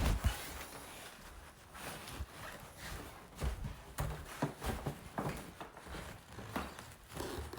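Scattered light knocks and rustling from handling, with no engine running.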